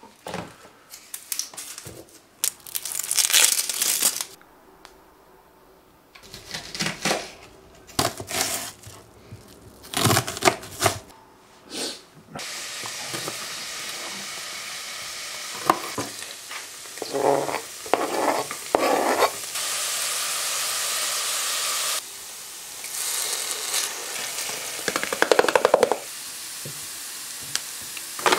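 Kitchen handling sounds: cardboard packaging and items knocking on a countertop. Then, from about twelve seconds in, a steady sizzling hiss of food frying in a pan, with a few knife knocks on a cutting board over it.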